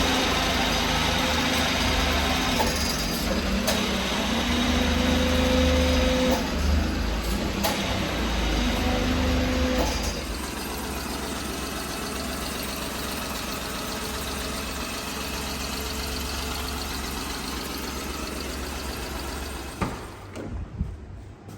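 The 1995 Daihatsu Hijet truck's small three-cylinder engine running: held at raised revs in three spells over the first ten seconds, then settling to a quieter steady idle. A few knocks come near the end, and the sound falls away.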